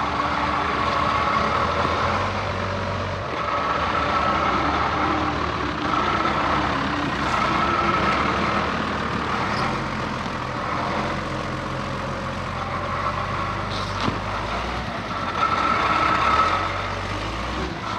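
Off-road truck engine running at low revs, its hum stepping up and down a few times as the throttle is worked, with a hiss that swells and fades over it.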